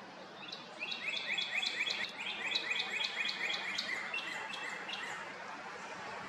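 A songbird singing a fast series of repeated notes, about four a second, lasting about four seconds and trailing off near the end.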